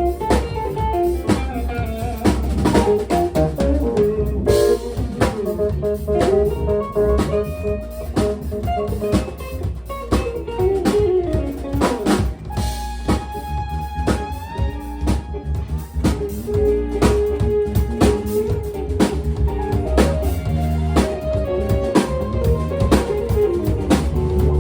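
A band playing an instrumental soul-blues number, with a guitar lead over a drum kit and rimshots on the snare.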